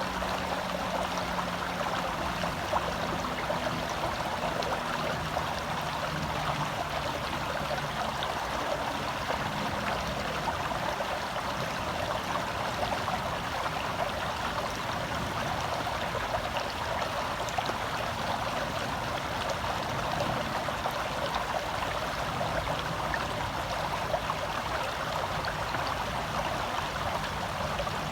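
Small forest stream running steadily over rocks, a close, even rush and babble of water heard from within the stream.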